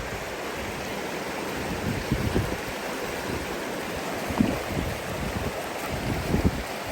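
Steady rushing of a flowing river, with a few brief low rumbles.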